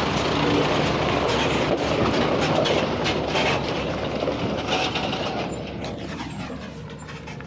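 Heavy truck passing close by, a loud rumbling, rattling run of engine and body noise that fades away over the last few seconds.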